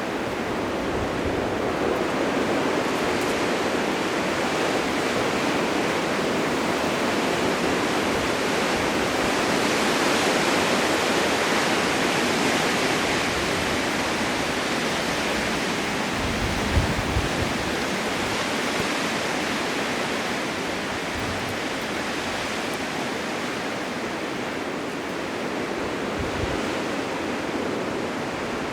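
Blizzard wind blowing as a steady rushing hiss that swells about a third of the way in and eases toward the end, with a few brief low buffets around the middle.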